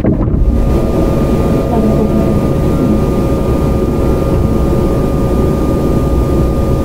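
Sotetsu 9000 series electric commuter train, with a Hitachi IGBT inverter and right-angle cardan drive, running and heard from inside the car: a dense rumble of wheels on track under two steady, level tones.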